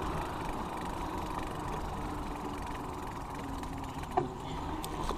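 Steady traffic noise with a motor vehicle's engine running by, and a short click a little after four seconds in.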